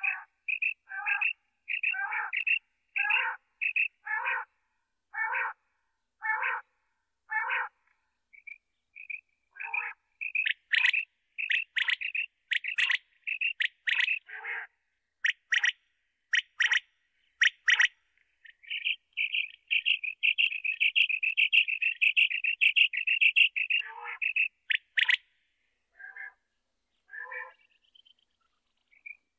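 Common quail calling: a series of short notes about once a second, then sharper, louder calls, then a rapid trill lasting about five seconds before the calls thin out.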